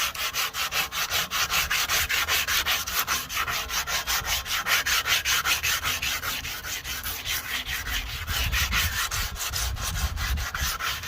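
Crumpled tin foil wet with Coca-Cola scrubbed back and forth over a rusty chrome bumper to lift the rust, in quick rubbing strokes about five a second.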